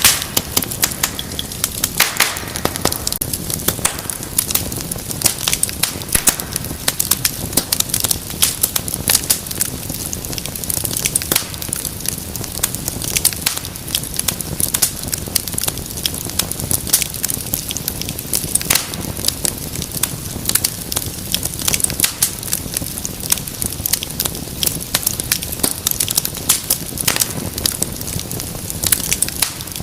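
Fire burning with a steady run of crackles and sharp pops, several a second, over a low steady rush of flame.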